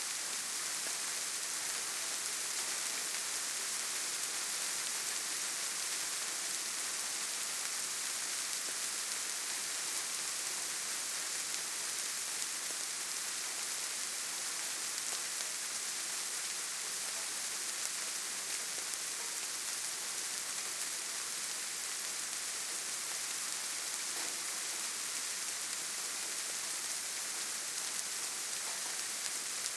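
Steady rainfall in a forest: an even, dense hiss of rain with no individual drops or other sounds standing out.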